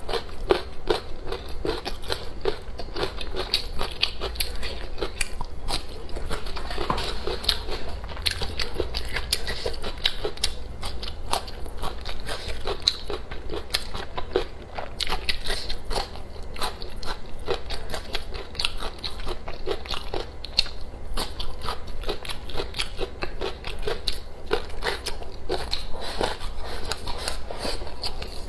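A person chewing and biting food close to the microphone, with crunching and a rapid stream of small wet clicks.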